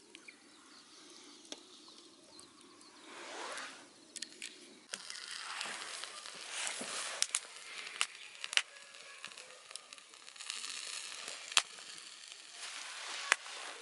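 Sizzling and crackling from a wood campfire and an outdoor iron griddle, with hissing that swells twice and a few sharp pops.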